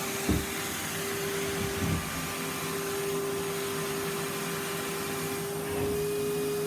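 Henry cylinder vacuum cleaner running steadily, a constant motor hum with a fixed pitch over suction hiss. A couple of short dull knocks, about a third of a second in and near two seconds, as the nozzle bumps against something.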